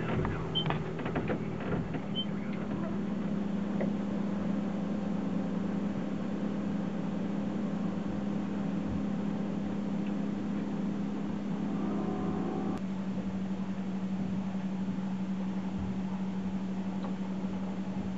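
A steady mechanical hum with a constant low pitch. A few clicks sound in the first couple of seconds, and the hum's higher overtones drop away about 13 seconds in.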